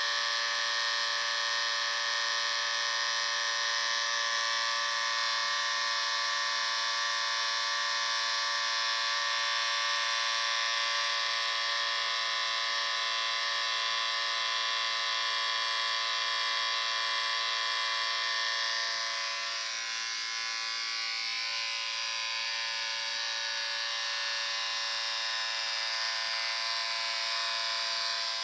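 Electric shaver buzzing steadily, a continuous high hum, dipping slightly in loudness and tone about two-thirds of the way through.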